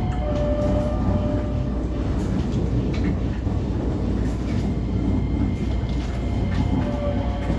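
125 series electric railcar running along the line: a steady low rumble with a held whining tone, and pairs of clicks as the wheels pass over rail joints.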